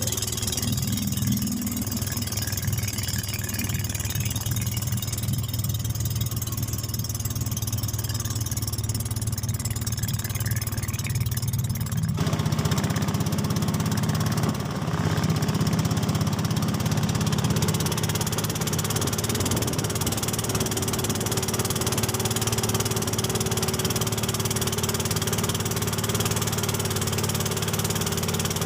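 Small boat's engine running steadily under way. About twelve seconds in, a louder rushing noise joins it.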